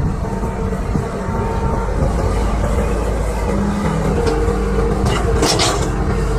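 Excavator's diesel engine running steadily under load, with a brief hiss about five seconds in.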